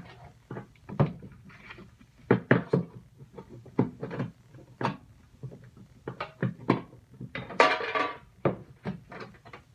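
Irregular clicks and metallic clanks of hands and a tool working at the turntable motor on the underside of a stripped-down microwave, with a longer rattling scrape near the end.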